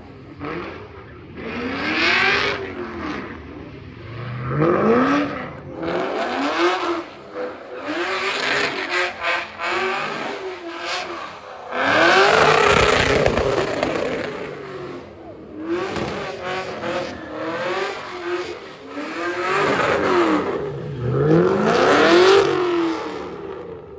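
A car engine revving hard and dropping back over and over, pitch rising and falling every second or two, with tyre noise from wheelspin as a car does donuts on wet pavement; the loudest surge comes about halfway through.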